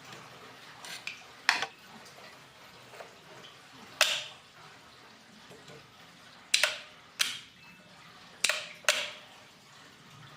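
A series of about six sharp clicks at irregular intervals, each dying away quickly.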